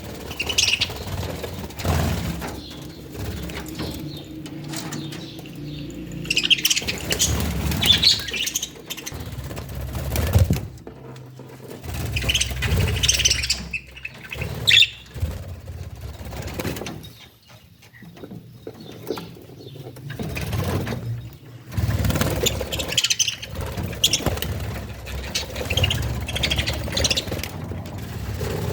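Small pet birds chirping in scattered bursts, with wing flutters and low knocks mixed in.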